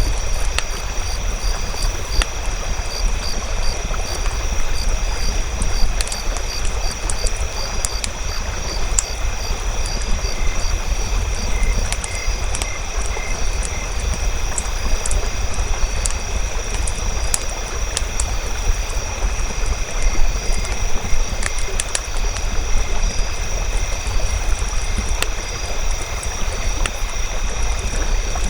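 Campfire burning: a steady low rush of flame with scattered sharp crackles and pops throughout.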